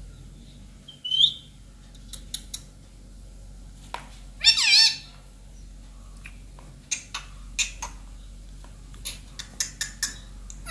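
Indian ringneck parrot calling: a short high squawk about a second in, a louder call with a wavering pitch near the middle, then a run of short, sharp calls toward the end.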